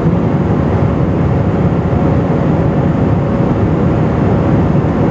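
Steady engine and airflow noise inside the cabin of an Airbus A320 climbing after takeoff, its IAE V2500 turbofans at climb power, with a faint steady hum running through it.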